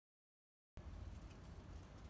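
Near silence: dead quiet, then from about three quarters of a second in a faint low rumble and hiss.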